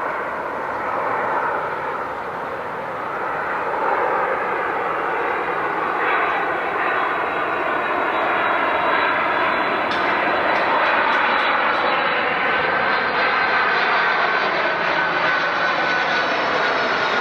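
Jet airliner engines running loud, growing louder over the first few seconds and then holding steady, with a thin whine slowly falling in pitch near the end.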